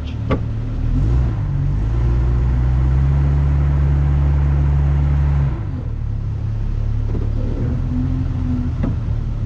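Off-road vehicle's engine under throttle, crawling over a rough trail obstacle. It builds up about a second and a half in, holds steady and loud for about four seconds, then eases back to a lower running level.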